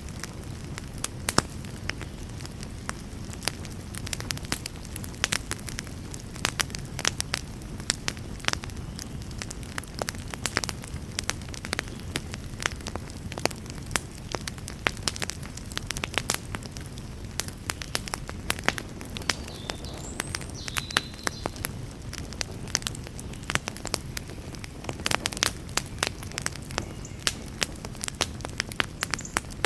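Wood campfire crackling: irregular sharp pops and snaps, several a second, over a low steady rush.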